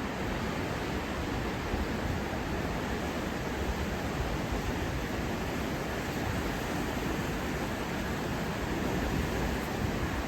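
Steady rushing of a flood-swollen river, an even roar of fast-moving water.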